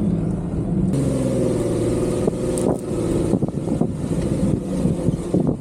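Off-road vehicle's engine running while driving over a rough dirt trail, with scattered knocks and rattles from the bumps from about two seconds in.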